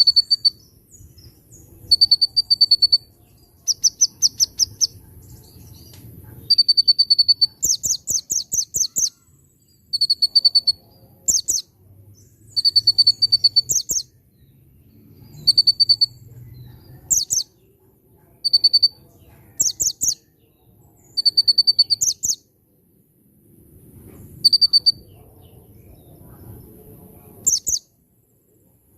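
A konin songbird singing in repeated bursts. Clear high notes alternate with rapid ticking trills in the style of a bar-winged prinia (ciblek), with short pauses between phrases.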